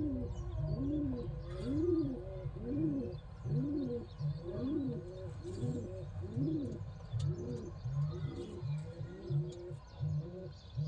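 Domestic pigeons cooing: a continuous run of low coos, each rising and falling in pitch, about one and a half a second, with faint higher chirps mixed in.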